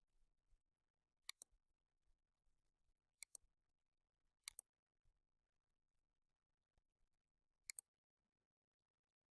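Four sharp double clicks, each a pair of quick clicks, spaced unevenly over near silence.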